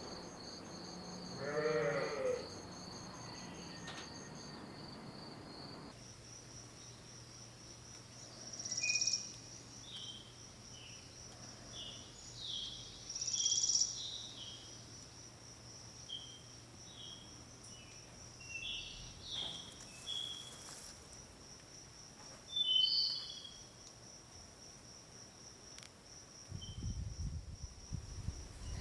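Crickets trilling in a steady pulsing chirp, with a single bleat like a sheep's or goat's about two seconds in. About six seconds in the ambience changes to a steady high insect drone over a low hum, scattered with short high chirps, and a low rumble comes up near the end.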